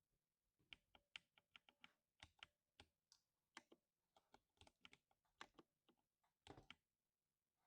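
Typing on a 60% mechanical keyboard with lubed silver linear switches: a quick, irregular run of faint keystrokes that starts just under a second in and stops about a second before the end.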